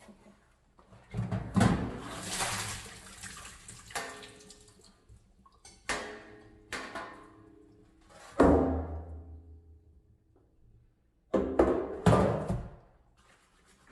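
Water splashing and pouring in several separate bursts of a second or two each, with handling knocks in between, as in rinsing at a sink.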